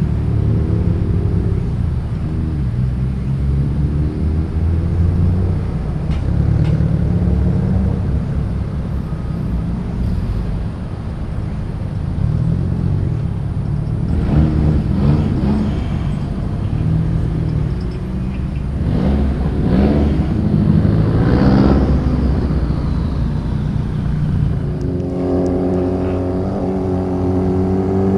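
Car engines running in low gear as cars move off one after another, with pitch rising and falling between about halfway and two-thirds through. Near the end one engine accelerates with a steadily rising note.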